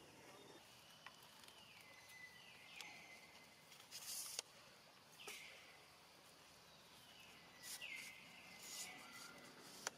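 Faint bird calls over a quiet background hiss: a short call that glides down and settles on a steady high note, repeated about five times. A brief hissing burst comes about four seconds in, and a single sharp click near the end.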